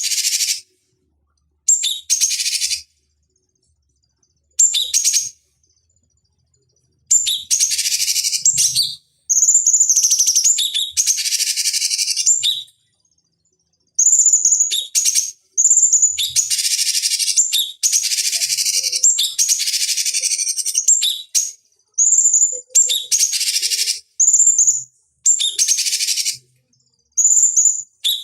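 Recorded cucak cungkok song played as a training lure: phrases of one to three seconds, each opening with a short high clear note and running into a harsh, buzzy chatter, separated by silent gaps.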